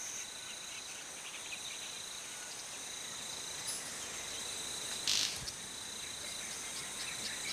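Steady high-pitched insect chorus of a tropical forest, shrilling on two even tones, with a brief sharp burst about five seconds in.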